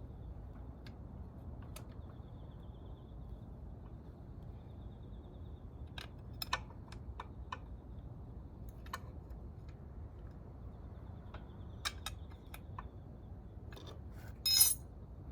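Scattered light metallic clinks and clicks of hand tools and engine parts being handled during motorcycle engine top-end disassembly, with a short, loud hiss near the end.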